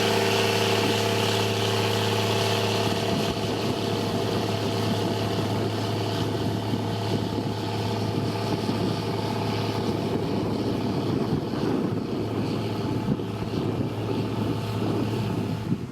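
Diesel engine of heavy road-construction machinery running steadily. Its even hum gives way after about three seconds to a rougher rumble.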